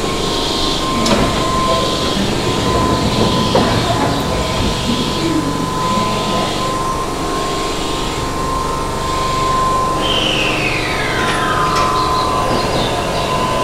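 Keihan electric train running at an underground station platform, its sound echoing off the station walls, with a steady high tone through most of it. Near the end a whine falls in pitch over about two seconds.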